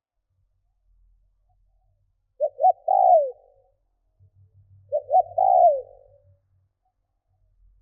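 Spotted dove cooing twice, about two and a half seconds apart. Each phrase is two short notes followed by a longer coo that falls at the end: the call of a decoy dove used to lure wild doves.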